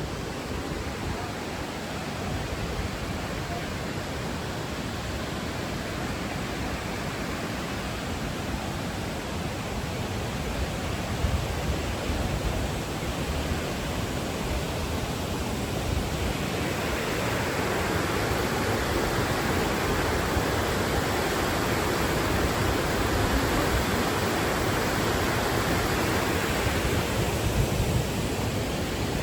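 A large waterfall: a steady rush of falling water that grows louder and fuller a little past halfway through.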